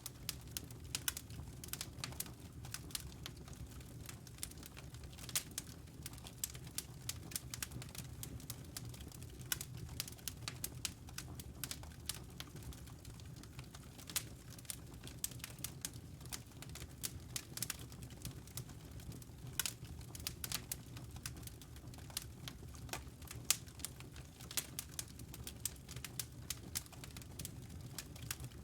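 Wood logs burning in a fireplace: frequent, irregular crackles and sharp pops over a steady low rumble of the flames.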